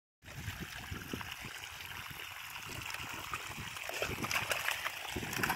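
Running water splashing and trickling steadily, a little louder about four seconds in.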